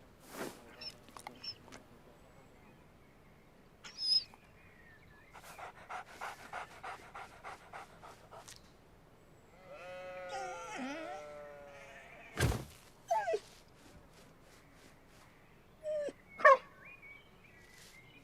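A cartoon dog from an animated film's soundtrack, whining and giving short yelps in several separate bursts, with a few clicks and one sharp knock between them.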